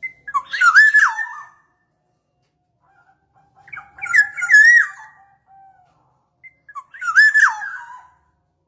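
Black-naped oriole (kepondang) calling: three fluting, swooping whistled phrases, each about a second long, about three seconds apart.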